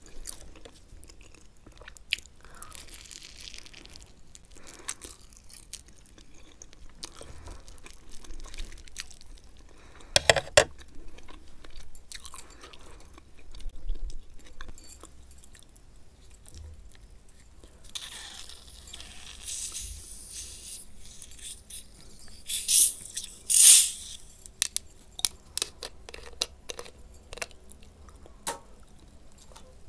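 Close-miked chewing and crunching of instant noodles and fried egg, with scattered mouth clicks. About two-thirds of the way in, the loudest noisy bursts come as a plastic cola bottle is handled and its screw cap is opened.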